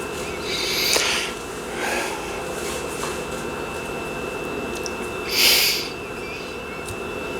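A person's short breathy hisses, sniffs or breaths: one about a second in, a softer one around two seconds, and a louder one about five and a half seconds in, over a faint steady high tone.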